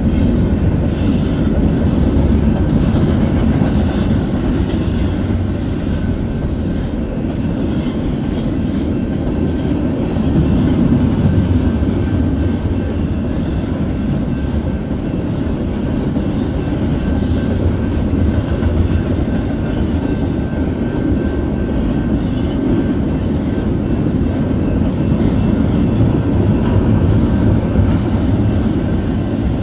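Double-stack intermodal freight train rolling past, a steady loud rumble of the well cars' wheels on the rails.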